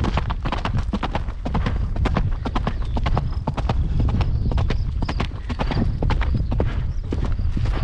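A ridden horse's hooves clip-clopping continuously, a dense run of sharp hoof strikes over a steady low rumble.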